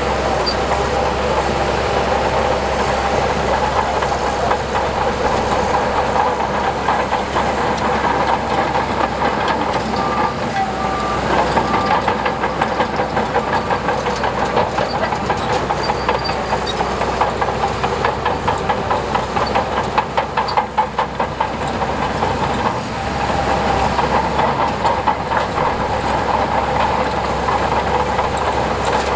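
Diesel engine of a tracked earthmoving machine running steadily, with a steady whine and a fast, continuous clatter of steel crawler tracks.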